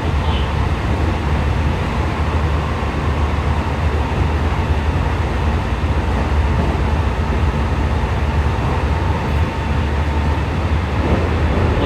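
A JR West 207 series commuter train running, heard from inside the car: a steady low rumble of wheels on rail with a faint steady whine.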